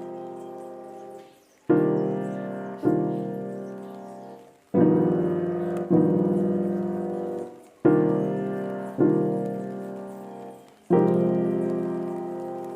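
Slow background piano music: sustained chords struck and left to fade, coming in pairs roughly every three seconds.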